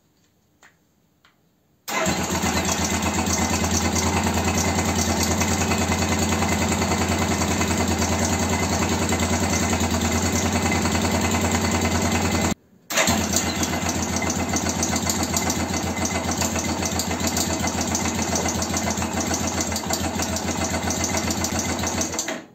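BM Motard motorcycle engine running steadily with a fast even beat, starting abruptly about two seconds in, dropping out briefly midway and cutting off near the end. This is the freshly rebuilt engine whose knock is being hunted.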